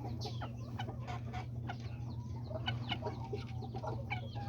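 Bantam chickens clucking in many short, quick calls that overlap and fall in pitch, over a steady low hum.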